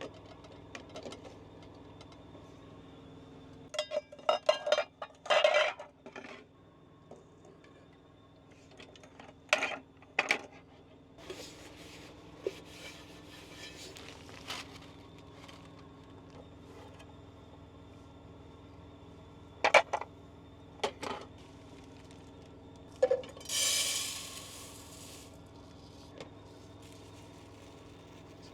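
Metal pot, lid and utensils clattering and knocking in scattered bursts while boiled eggs are taken out of the pot, over a steady low hum. About 23 seconds in, a loud rushing noise lasts a second and a half.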